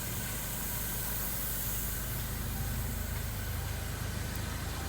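The Land Rover Discovery Sport's 2.0-litre engine idling steadily as a low, even hum with hiss over it.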